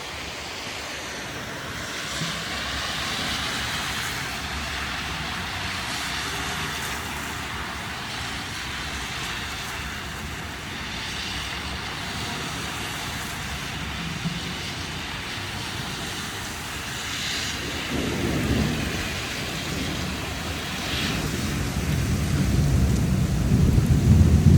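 Heavy rain falling steadily as a continuous hiss, with a low rumble of thunder building in the last few seconds and growing louder toward the end.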